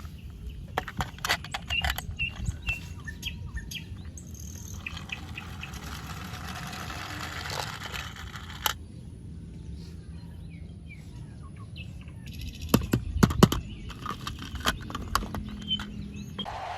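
Scattered clicks and taps, loudest in a cluster near the end, over a low steady hum, with faint bird chirps in the background.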